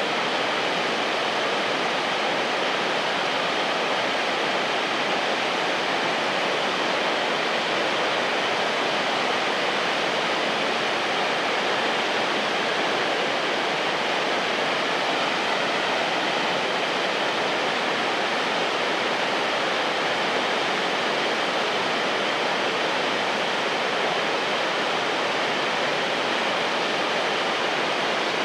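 Shirahige Falls pouring down, a steady, unbroken rush of falling water that never changes in level.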